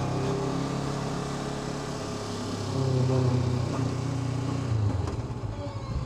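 Honda NX500's parallel-twin engine running while riding uphill, getting louder about three seconds in as the throttle opens, then easing back.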